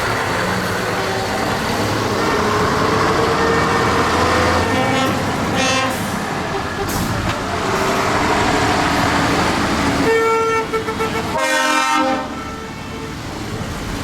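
Tractors passing in procession with their engines running. A horn is sounded in two blasts near the end, with shorter toots earlier.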